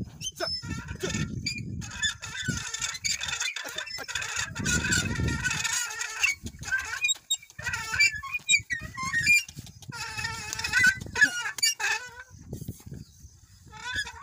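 Birds chirping and calling in short, scattered notes, over gusts of low rumble.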